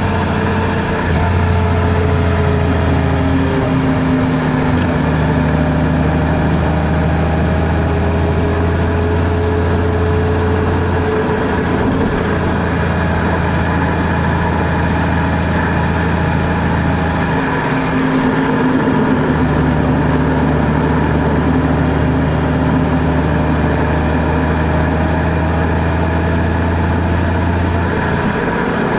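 Car engine and road noise while driving, a steady low hum whose pitch drifts up and down slowly with speed, with a brief change in the engine note about two-thirds of the way through.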